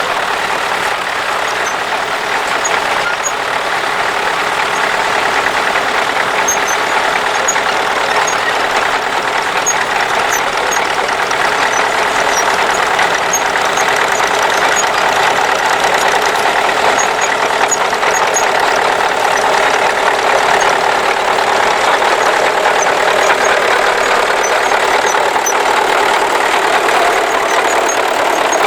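Tractor engine running steadily, growing a little louder partway through.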